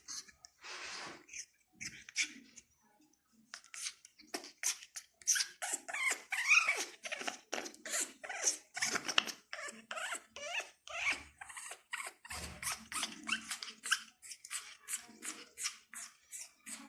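Parrot making a rapid string of short squeaks, clicks and chirps, several a second, with a short pause about three seconds in.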